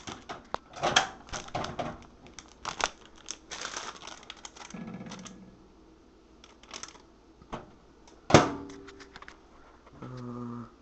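Empty plastic chip bag crinkling and clicking as it is handled, then a single sharp clack about eight seconds in, and a steady microwave oven hum starting near the end.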